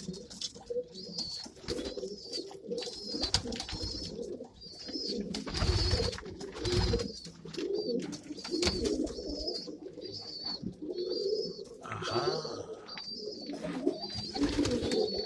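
Domestic pigeons cooing in a loft, a steady wavering chorus. Over it a short high call repeats about once a second, with scattered sharp knocks.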